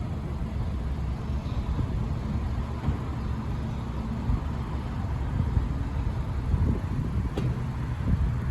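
Empty iron ore hopper cars of a freight train rolling past, a steady low rumble of wheels on the rails, with one sharp click about seven seconds in.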